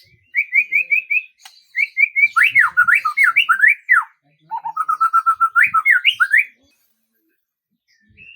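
A songbird singing three phrases of quick, repeated whistled notes, some steady and some sharply slurred up and down. It falls silent about two-thirds of the way through.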